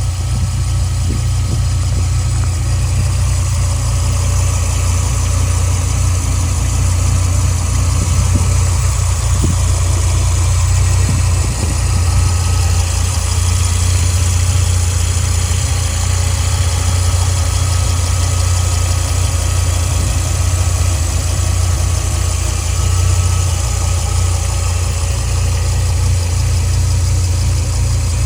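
1993 Dodge Viper RT/10's 8.0-litre V10 engine idling steadily.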